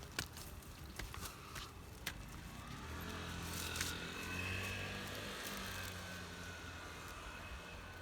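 A few light clicks, then a low steady motor hum that comes in about three seconds in, swells slightly and eases off again.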